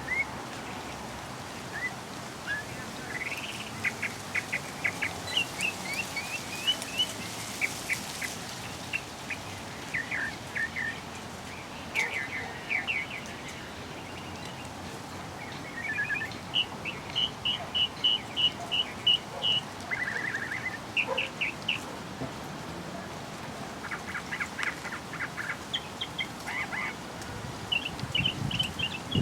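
Birds chirping and calling in short phrases and trills, including a quick run of even notes about two-thirds of the way through, over a steady background hiss.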